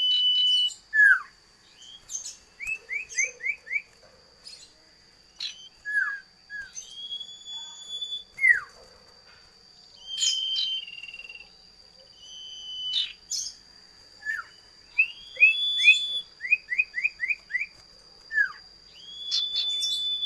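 A cipoh (common iora) singing a varied whistled song: held clear whistles, quick runs of about five short rising notes, and sharp downward-slurred notes. A steady thin high tone runs underneath.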